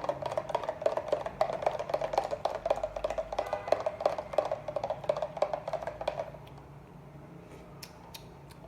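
A utensil stirring quickly in a bowl, giving rapid clicking and tapping as sugar is mixed into warm water. It stops about six seconds in.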